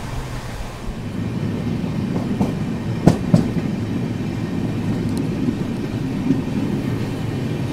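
Passenger train running, heard from an open coach door: a steady rumble of steel wheels on the rails, with a pair of sharp clacks about three seconds in as the wheels cross a track joint.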